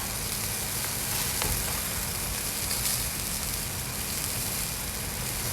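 Yakitori chicken skewers sizzling as they grill: a steady, even hiss with a few faint ticks.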